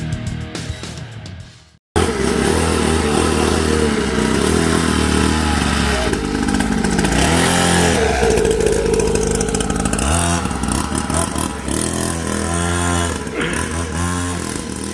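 Music fades out, then a small pit bike engine cuts in about two seconds in, running and being revved up and down as it is ridden.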